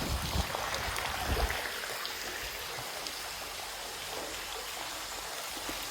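Bumps and rubbing on the phone's microphone for about the first second and a half, then a steady hiss of running water from a spring.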